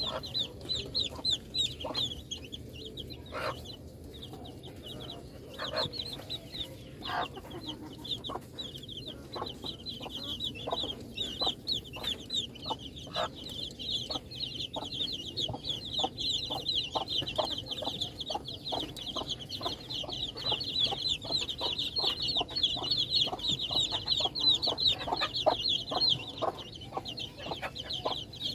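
Baby chicks peeping continuously in many short, high chirps that fall in pitch, the chorus growing denser in the second half, with scattered short taps among them.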